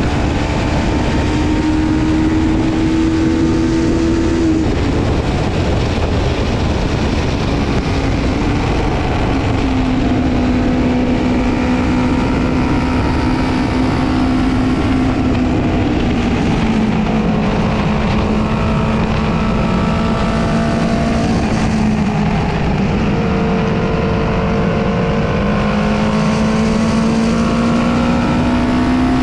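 Honda CB500 parallel-twin engine running hard, heard from on board the bike with heavy wind rush over it. The engine note holds high, breaks off about four seconds in, steps down through the middle and climbs again in the last few seconds.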